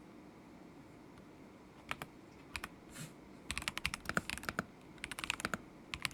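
Typing on a stock KZZI K75 Pro mechanical keyboard with Moment linear switches: a pause of about two seconds, a few single keystrokes, then short quick bursts of clacking keys.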